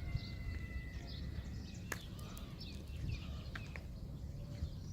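Birds chirping and calling, with a few held whistled notes at the start, over a steady low background rumble and a couple of sharp clicks.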